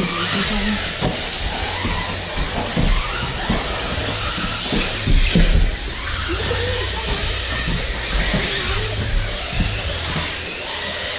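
Electric RC buggies and trucks running on a practice track, a steady hiss over a low hum. A run of knocks comes between about one and six seconds in, loudest about five seconds in.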